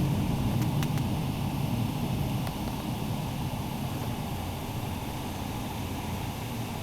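Thunderstorm wind gust blowing in a steady rush, heaviest in the low end, gradually easing as the gust dies down, with a few faint ticks in the first seconds.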